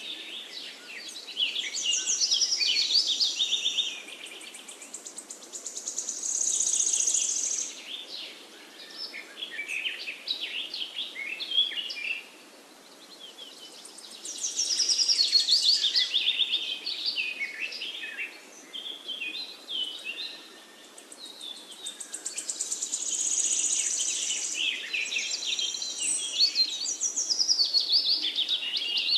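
Birdsong: phrases of quick, high chirps and trills lasting a few seconds each, with short pauses between.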